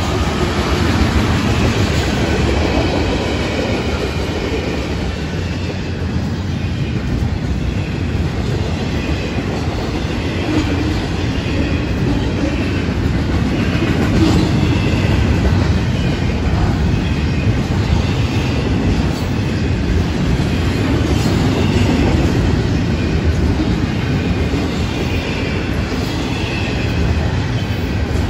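A Florida East Coast Railway freight train's cars rolling past at close range: tank cars, then double-stack container cars, their steel wheels giving a steady rumble on the rails. Brief faint high squeals come from the wheels now and then.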